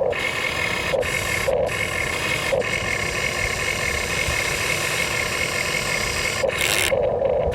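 Engine of a heavy construction machine running with a steady noisy rumble, the sound changing abruptly several times.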